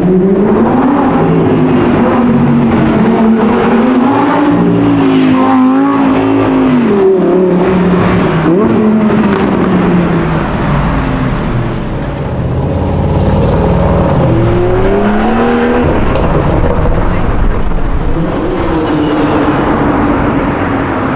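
Supercar engine running loud and revving, its pitch climbing, falling back and climbing again several times as it accelerates.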